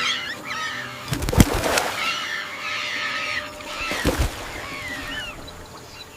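Gaur bulls clashing horns, two heavy knocks about a second and a half in and about four seconds in, under many birds chirping and calling.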